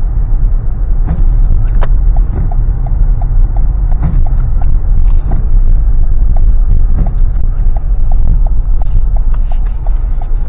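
Inside a car driving on a snow-covered road: steady low rumble of the road and engine with scattered knocks, and the turn signal ticking evenly, a few ticks a second, from about two seconds in until near the end.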